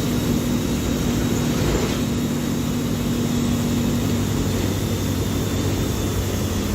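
Diesel engine of a Mercedes-Benz OF-1724L bus running steadily under way, a continuous drone with a humming tone that fades out about four and a half seconds in.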